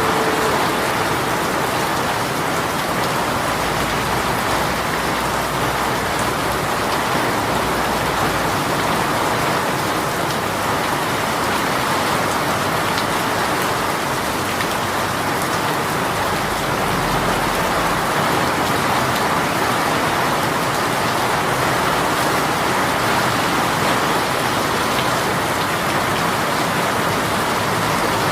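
Heavy rain shower falling steadily, a dense even patter of rain on surfaces.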